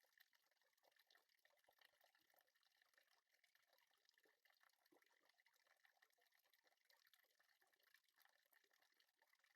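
Near silence: a faint, even crackling hiss with tiny ticks.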